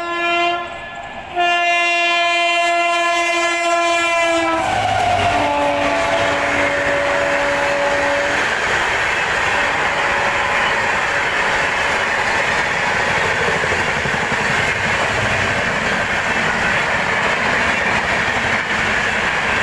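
Train horn sounding a short blast and then a long one, its pitch dropping as it passes, then the steady rumble and wheel clatter of the train running by on the rails.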